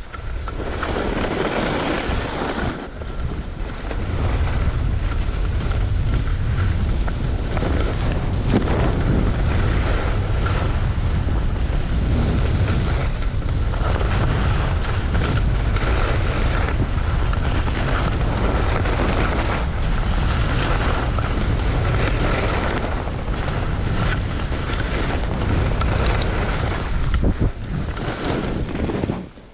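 Wind buffeting the microphone during a fast ski run, with the hiss of skis on snow swelling and fading every second or two through the turns.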